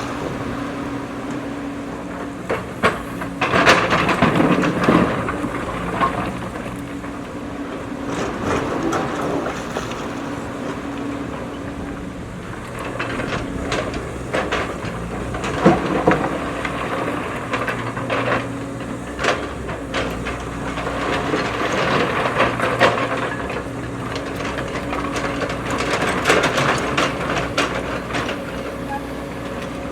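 JCB backhoe loader's diesel engine running steadily. Several louder stretches of clattering and crunching from the bucket digging come over it.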